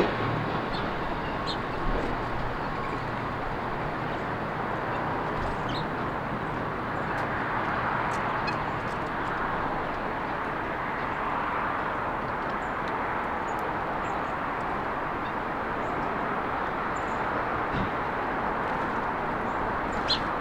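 Steady traffic noise from a nearby road, swelling for a few seconds in the middle as vehicles pass, with short, faint chirps from small birds scattered throughout and a couple of light knocks.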